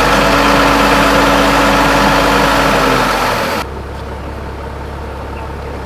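An engine running steadily at a constant pitch. A bit over halfway through it cuts abruptly to a quieter low hum.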